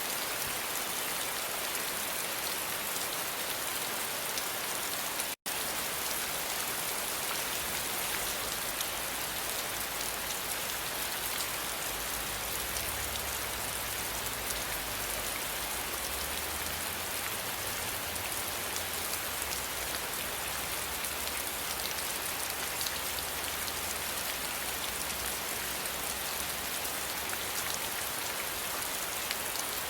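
Steady rain falling and pattering on surfaces, an even hiss with no let-up. The sound cuts out completely for an instant about five seconds in, and a faint low rumble runs under the rain for a while after.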